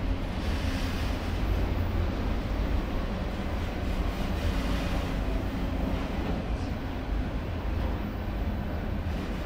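Autorack freight cars rolling past close by: a steady, deep rumble of steel wheels on the rails.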